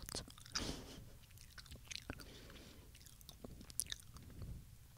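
Haribo gummy bears being chewed close to the microphone: soft, sticky mouth sounds with scattered small clicks, loudest about half a second in.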